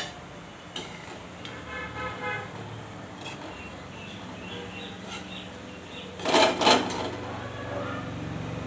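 Metal utensil clattering against a frying pan twice, loudly, about six seconds in, with a brief horn-like tone a couple of seconds earlier.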